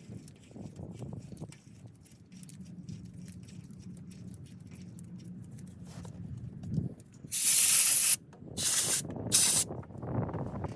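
Three short blasts of pressurised spray hissing about seven seconds in, the first nearly a second long and the next two shorter, with faint handling noises before them.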